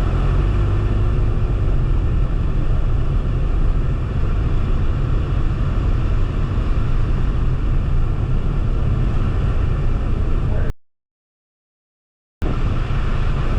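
Steady road and wind rumble inside a moving car's cabin, heavy in the low end. It cuts to dead silence for about a second and a half near the end, then the same rumble comes back.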